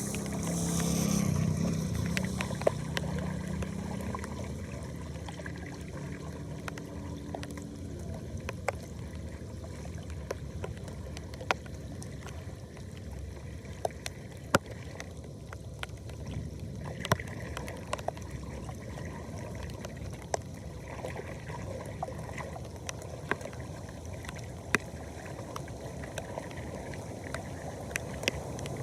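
Flood water draining down a storm drain: a steady low rushing and gurgling, with scattered sharp clicks and pops through it. It is louder for the first couple of seconds.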